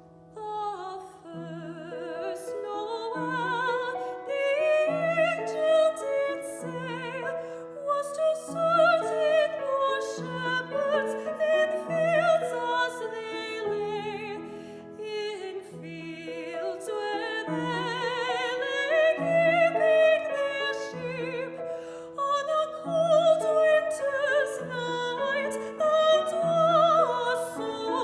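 Soprano singing a slow classical Christmas song with vibrato, accompanied by piano with a low note repeating about every second and a half.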